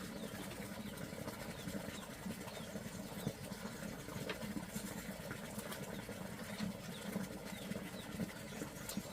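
A steady low hum, with faint scattered clicks and a few faint high chirps over it.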